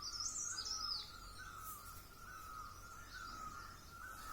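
Birds singing outdoors: a quick burst of high twittering in the first second, over a repeated lower note about twice a second.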